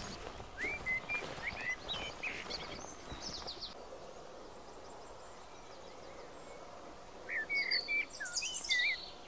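A songbird singing in two bursts of quick, high chirps and trills: one from about half a second in lasting some three seconds, and another starting about seven seconds in. A faint steady outdoor hiss lies under it.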